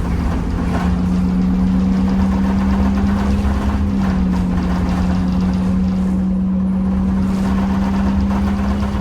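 Temsa Avenue LF 12 city bus with a DAF Euro 5 diesel and ZF gearbox running, giving a strong steady low drone that holds nearly one pitch over engine and road rumble.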